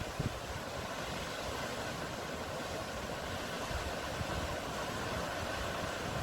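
Steady sea surf: a continuous, even wash of waves with no single breaker standing out.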